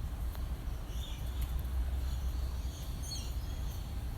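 A few short, scattered bird chirps from exhibit birds over a steady low rumble.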